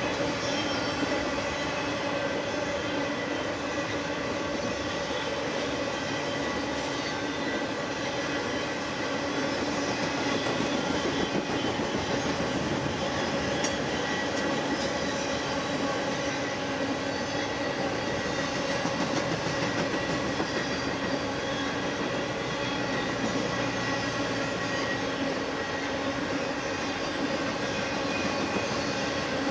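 BNSF intermodal freight train's cars rolling steadily past, wheels clicking over the rail with a few steady held tones.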